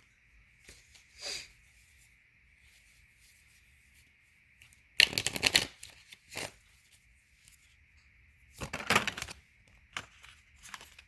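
Tarot cards being shuffled in two short bursts, about five seconds in and again near nine seconds, with a few light taps of card handling between.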